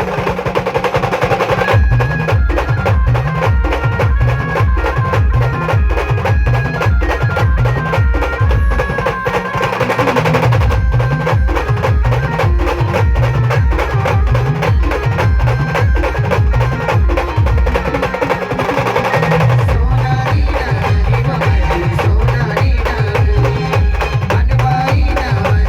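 Live Indian band-party music played loud through the band's sound system: heavy bass beats about twice a second under a sustained melody, with clattering percussion. The bass drops out briefly twice.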